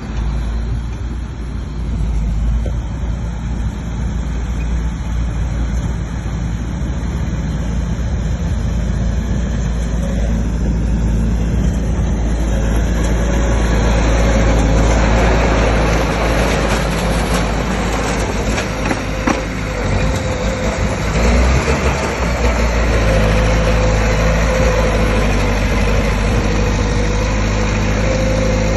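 Bulldozer's diesel engine running steadily, with a louder, rougher noise building from about halfway through.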